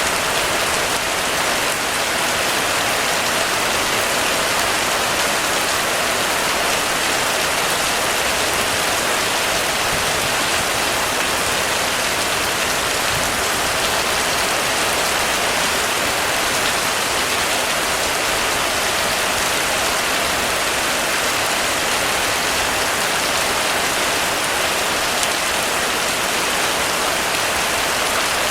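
Heavy rain falling steadily on a roof: an even, dense hiss with no letup.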